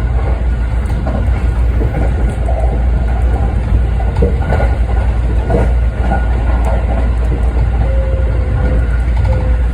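Sanyo Electric Railway 5030 series electric train running, heard from inside the car: a steady low rumble with some wheel-on-rail clatter through the middle and a faint steady whine, plus a second faint tone near the end.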